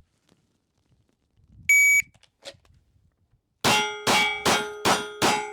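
A shot timer's electronic start beep, then about two seconds later a pistol fired in quick succession, five shots roughly 0.4 s apart, each leaving a short ringing tone. This is the draw and string of a Bill drill, six shots in all.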